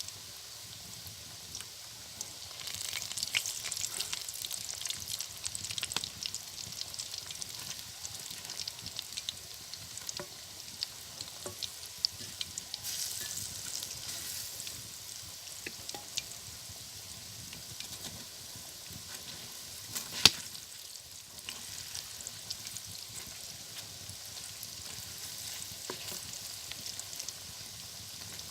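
Chicken pakoras deep-frying in hot oil: a steady sizzle with many small crackles, louder from about two and a half seconds in. A single sharp knock about twenty seconds in.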